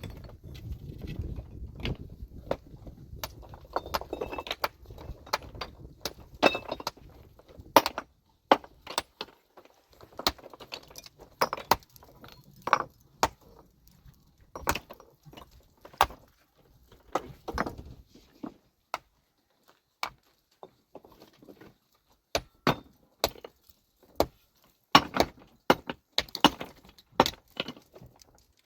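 Metal hand tools striking rock, sharp clinking blows at an uneven pace of about one or two a second, some of them ringing.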